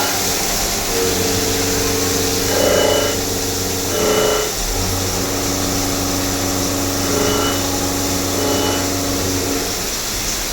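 CNC vertical machining centre running a cut on a universal coupling part: a steady hiss with a machine hum whose tones shift several times, and brief louder swells about three and four seconds in.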